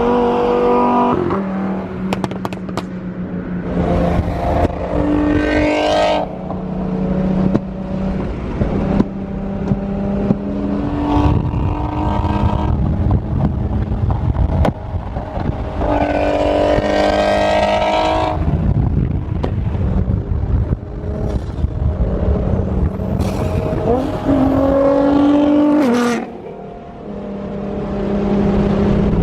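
Supercar engines revving and accelerating, the engine note rising several times between steadier running, with a few sharp cracks.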